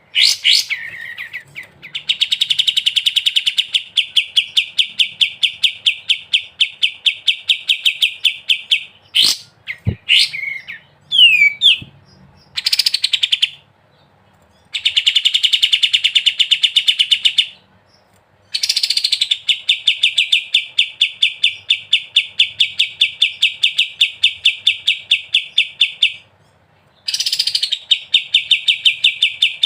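A kapas tembak bulbul singing its fast rattling 'ngebren' song: long bouts of rapidly repeated chattering notes lasting several seconds each, broken by short pauses and a few short separate calls.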